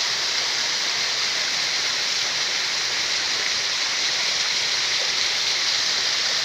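Steady rushing of flowing water, like a forest stream or small waterfall, with no change in level.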